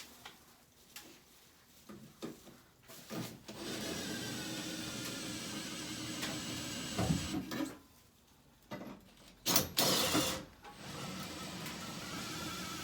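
A small electric motor runs for about four seconds, stops, and runs again near the end. A few sharp knocks and clatter come in the pause between the runs.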